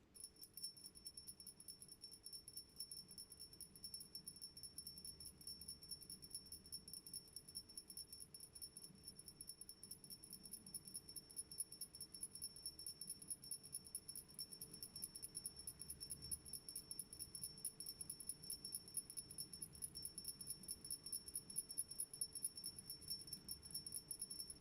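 A hollow cast nine-metal (nawaloha) Ganesha amulet being shaken steadily so that the loose pellet sealed inside rattles against the metal: a rapid, even, high bell-like tinkling. It grows gradually louder toward the end.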